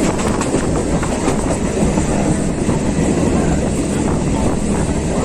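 Electric suburban local train running between stations, heard from inside the coach: steady rumble of wheels on rail with faint clicks from the track.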